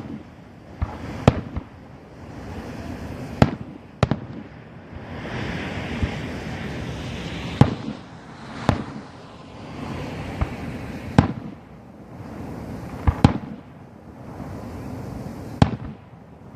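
Professional aerial fireworks display: shells bursting with sharp bangs at irregular intervals, about nine in all, one to three seconds apart, over a steady rushing hiss.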